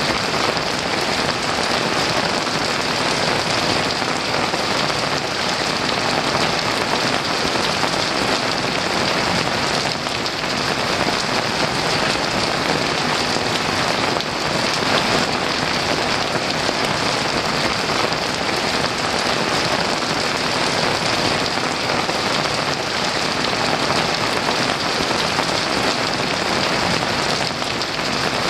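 Heavy rain falling steadily in an unbroken downpour.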